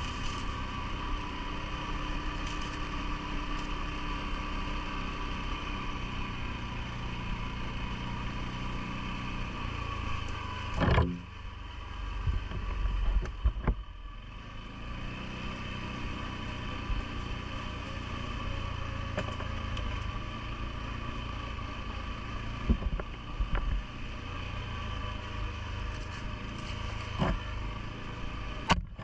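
CFMOTO ATV engine running steadily, with scattered knocks and thumps, the loudest around the middle and one more just before the end.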